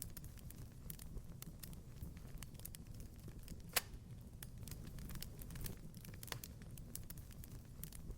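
Wood fire crackling in a fireplace: a steady low rumble of flames with scattered sharp pops and snaps, one louder pop a little before the middle.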